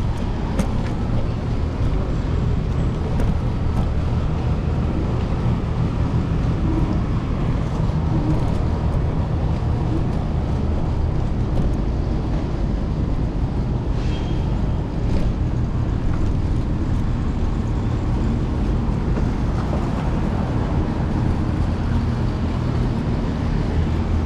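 Continuous rumble of an Apollo Explore electric scooter riding through city streets, picked up by a handlebar-mounted camera. It is road and vibration noise with wind on the microphone, against traffic, with a few small knocks.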